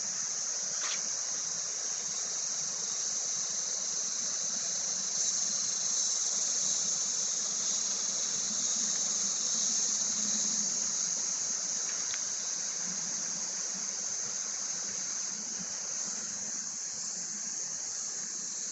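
Steady high-pitched insect drone that goes on unbroken, with a couple of faint clicks.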